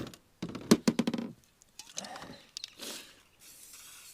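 A quick clatter of sharp knocks about half a second to a second in, then fainter scattered knocks, and a faint steady hiss that sets in near the end.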